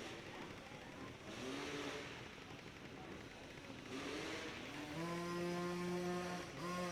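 A small micro-mini dirt bike engine revs in two short rising bursts, then is held at a steady high pitch from about five seconds in, dipping briefly near the end.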